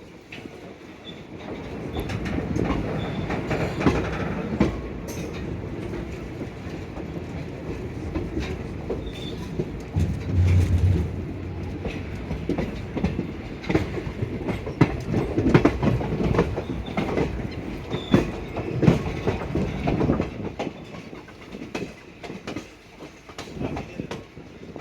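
Train wheels running over rail joints: a steady clickety-clack with rattling and many sharp clicks, louder from about two seconds in.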